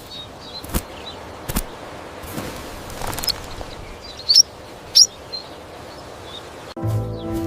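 Outdoor background with a few short, high bird chirps, the two loudest about four and a half and five seconds in, and a few sharp knocks earlier on. Near the end it cuts suddenly to a cat meowing.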